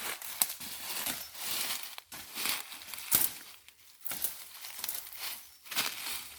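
Dry leaf litter and undergrowth rustling and crackling in irregular bursts, as someone moves through it.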